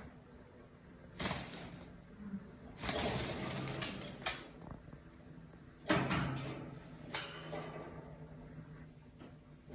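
Alexandrine parrot bathing, splashing water in three bursts of about a second each, the longest in the middle, with a couple of sharp clicks against the bath dish.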